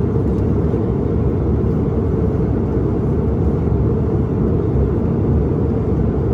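Steady low rumble of airliner cabin noise, the engines and airflow heard from inside the passenger cabin, with no change in level.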